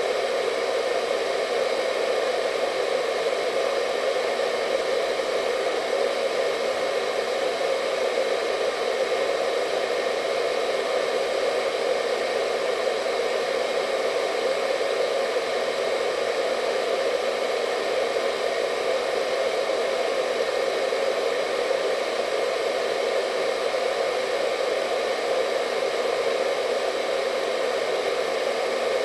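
Hair dryer running steadily, an even airy rush with a faint motor whine in it and no change in speed.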